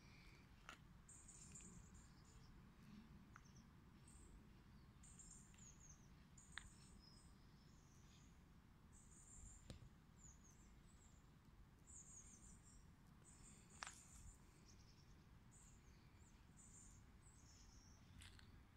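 Faint outdoor ambience: small birds chirping, short high calls with little falling notes repeating every second or two, over a low steady background hum, with a few soft clicks.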